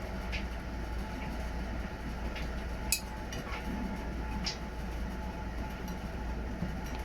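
Washing machine running a wash: a steady low rumble from the turning drum, with a few scattered sharp clicks and clinks, the loudest about three seconds in.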